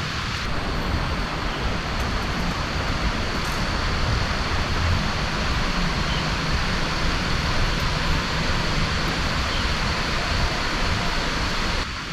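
Heavy rain falling steadily: a dense, even hiss with a low rumble beneath it.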